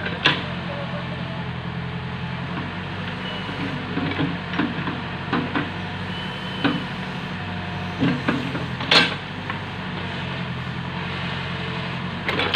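A truck engine running steadily, with scattered sharp knocks and clanks over it, the loudest about nine seconds in.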